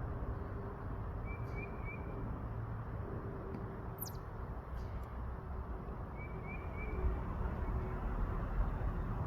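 Outdoor background noise with a faint steady hum. A bird gives a short chirping trill twice, about a second in and again about six seconds in, and a few isolated sharp taps sound, the clearest near four seconds.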